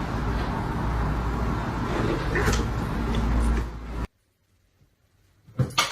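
Steady low rumble of a running vehicle, cutting off suddenly about four seconds in.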